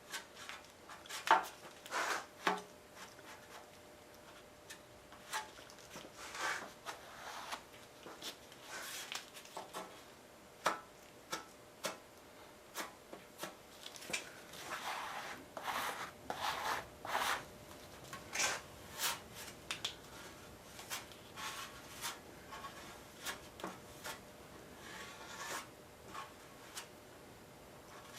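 A hand tool scraping and rubbing across a steel fender in short, irregular strokes, with a few sharp clicks and taps: stiff body filler being worked onto the metal, hard to spread while the shop is cold.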